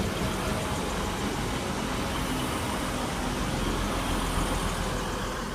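Class 185 diesel multiple unit at the platform, giving a steady, even running noise.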